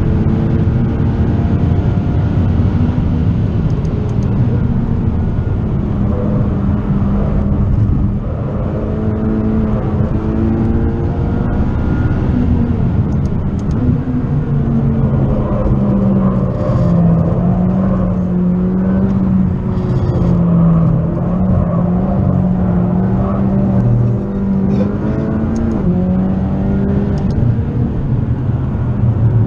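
McLaren 540C's twin-turbo V8, stage-1 tuned to about 650 hp, heard from inside the cabin at track speed. The engine note rises and falls again and again as the car accelerates and slows.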